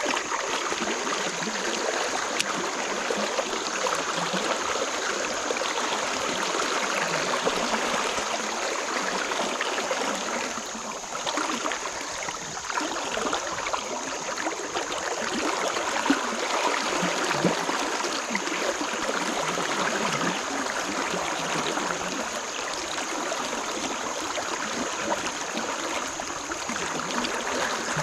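Flowing river water, a steady rushing wash of current.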